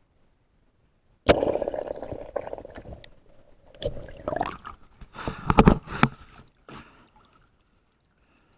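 Water splashing and sloshing in a river, starting suddenly about a second in, then more irregular splashes and a few sharp knocks.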